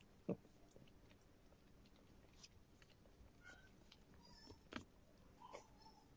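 Faint chewing and mouth smacks of someone eating noodles, with scattered soft clicks of a fork against the bowl; one sharper click right at the start.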